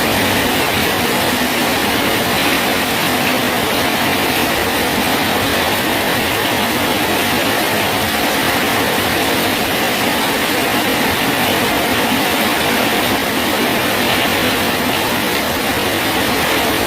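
Rain falling steadily on a bridge: an even, unbroken hiss with no let-up.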